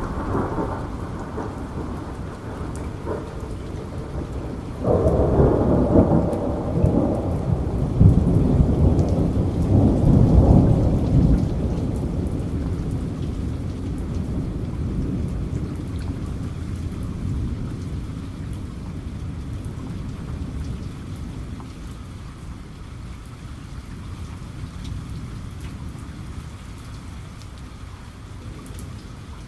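Steady rain falling, with fine drop ticks, and a roll of thunder that breaks suddenly about five seconds in. The thunder is loudest a few seconds later, then rumbles slowly away under the rain.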